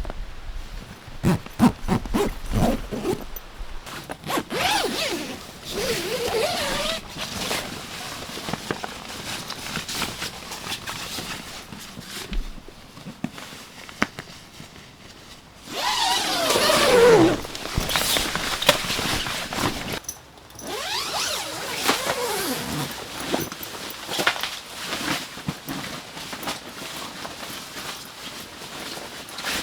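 A zipper being pulled several times, each pull lasting a second or two, the loudest one just past halfway through.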